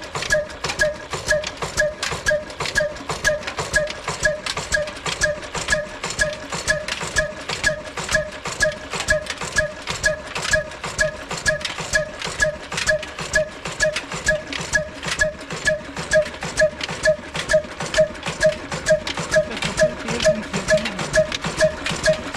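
Old slow-speed single-cylinder diesel engine running steadily, its exhaust beating about two and a half times a second with a ringing metallic note on each beat.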